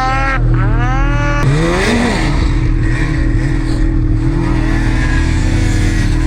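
Snowmobile engines running under load, with revs rising and falling several times; a sweep of engine pitch in the first second or so, then a steady drone.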